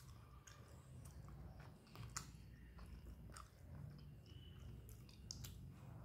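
Faint close-miked chewing of a mouthful of rice and fish curry, with scattered soft mouth clicks.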